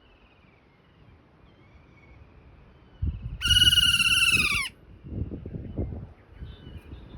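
A kea giving one loud, shrill, drawn-out call of about a second, its pitch dipping at the end. Low rumbling noise comes and goes around the call, and fainter calls sound early on.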